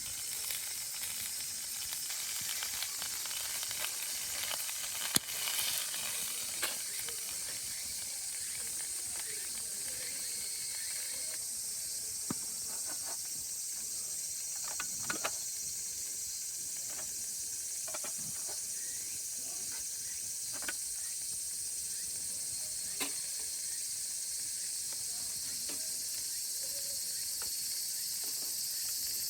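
A chorus of cicadas droning steadily in summer, with a few scattered light clicks and taps over it.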